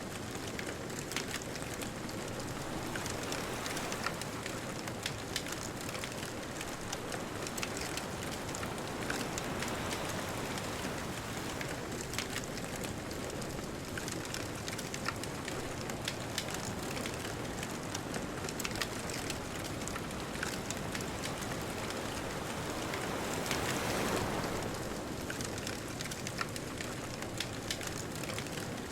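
Bonfire crackling, with many small sharp snaps, over a steady wash of distant ocean surf. Near the end a wave swells up and breaks.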